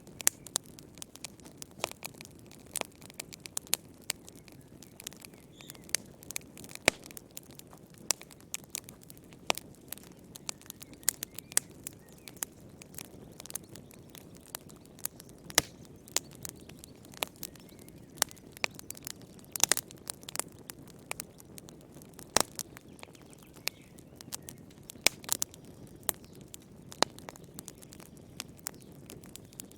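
Fire in a fireplace crackling: irregular sharp pops and snaps, several a second, over a low steady rumble of flame.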